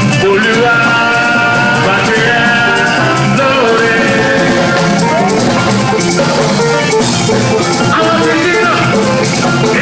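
Live band music: a drum kit keeps a steady beat under a pitched melodic lead line and accompanying instruments.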